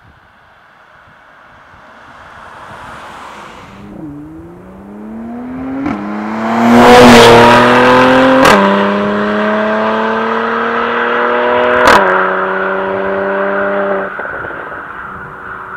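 Mercedes-AMG C43's twin-turbo V6 accelerating hard through the gears of its 9-speed automatic. It swells in, then rises in pitch and drops back at three upshifts, with a sharp crack from the exhaust at the later shifts, and fades away near the end.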